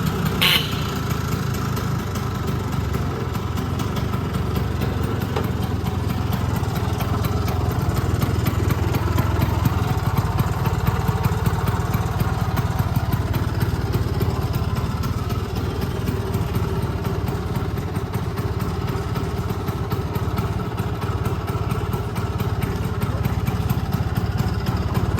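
Vespa 50s scooter's single-cylinder two-stroke engine, bored up to 85cc, idling steadily.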